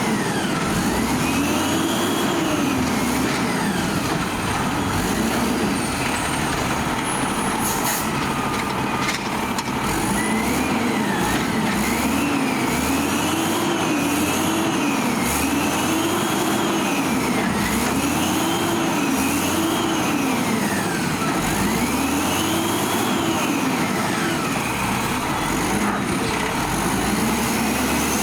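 Peterbilt 320 garbage truck's diesel engine revved up and down over and over, the pitch rising and falling every couple of seconds, typical of the engine being revved to drive the hydraulic arm and packer.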